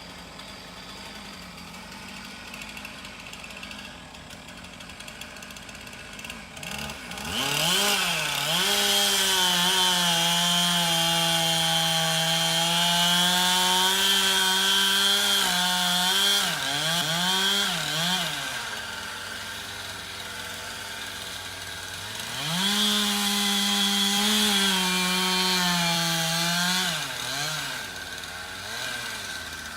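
Chainsaw cutting: it idles, revs up to full throttle about seven seconds in and holds there, with the pitch dipping briefly as it bogs in the wood. It drops back to idle, then revs up again for a second cut of about five seconds.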